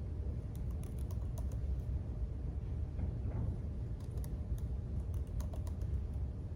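Typing on a computer keyboard in two short bursts of key clicks, over a steady low rumble of room noise.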